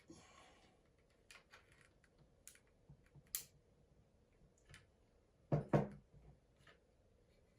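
Scattered light clicks and taps from handling tools and the adhesive tube, with a louder double knock about five and a half seconds in.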